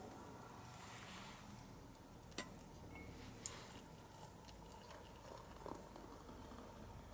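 Wood fire of disposable chopsticks and scrap wood burning in a small Chinese-made camping wood stove, crackling faintly: a few scattered sharp pops over a low steady hiss.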